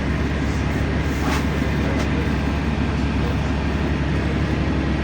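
Steady cabin noise of a LiAZ-5292.65 low-floor city bus under way: diesel engine and road rumble, with a faint light rattle or click now and then.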